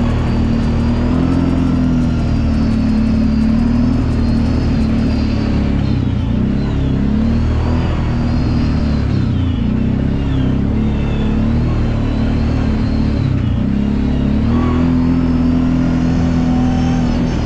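Kawasaki Brute Force 750 ATV's V-twin engine running under way. Its pitch holds steady, wavers up and down through the middle, and settles steady again near the end.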